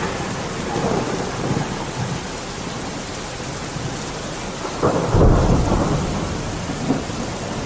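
Steady rain with thunder. A low rumble comes about a second in, and a louder roll of thunder breaks in about five seconds in, then fades.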